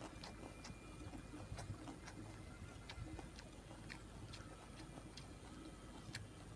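Faint, scattered mouth clicks and lip smacks of someone chewing food, a few soft ticks a second.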